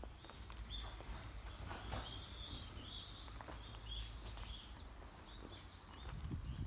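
Small birds chirping in short, repeated high calls over a low rumble, with a few footsteps near the end.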